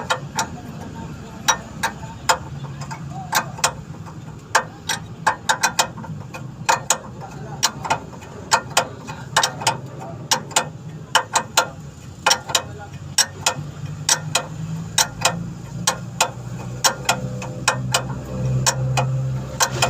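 Ratchet wrench clicking in short, irregular runs over a low steady hum.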